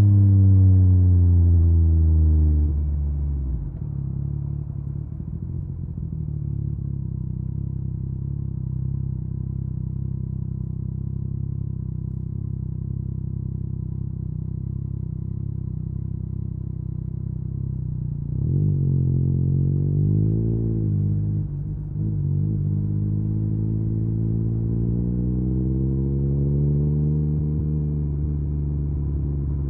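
Yamaha MT-09's inline three-cylinder engine through an Akrapovic carbon exhaust. The revs fall off over the first three seconds, then hold low and steady for about fifteen seconds. A few quick throttle blips follow, then the revs climb slowly and ease off near the end.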